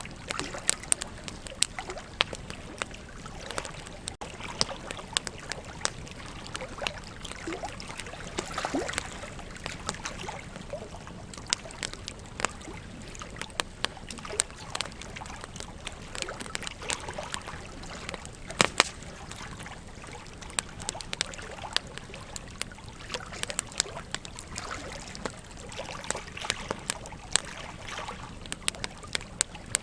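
Wood campfire crackling, with frequent irregular sharp pops, over the steady rush of flowing river water.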